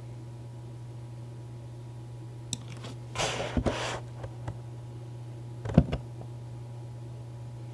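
Cat on a lap purring steadily as a low hum. A brief rustling noise comes about three seconds in, and a sharp click near six seconds.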